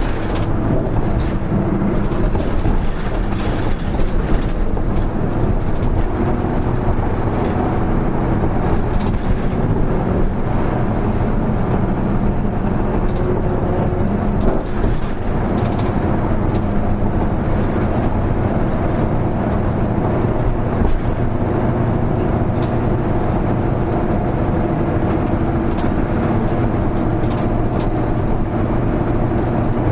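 Isuzu Erga Mio (KL-HR1JNEE) route bus running at a fairly steady speed, heard from inside the passenger cabin: a continuous diesel engine note with road noise, and scattered small rattles and clicks.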